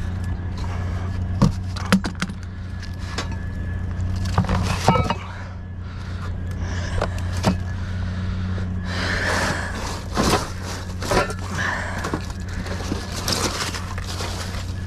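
Junk being rummaged through in a dumpster: scattered knocks, clanks and scraping rattles of metal and debris being moved, over a steady low hum.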